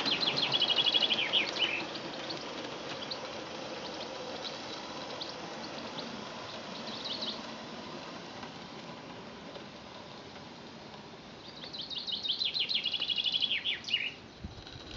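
A songbird singing two phrases, one at the start and another about twelve seconds in, each a quick run of high repeated notes falling into a trill with a short flourish at the end. A faint, even low rumble lies underneath.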